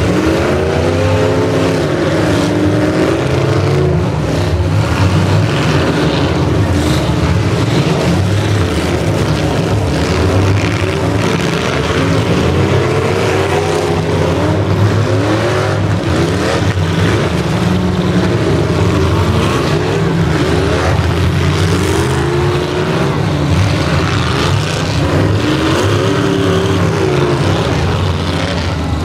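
Several demolition derby cars' engines running and revving at once, their pitch repeatedly rising and falling as the drivers gun the throttle, with a few sharp crashes mixed in.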